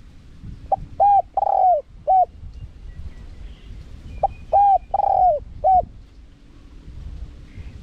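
Spotted dove cooing: two phrases of four coos each, the first starting about a second in and the second about four seconds in. Faint chirps of other birds sound between the phrases.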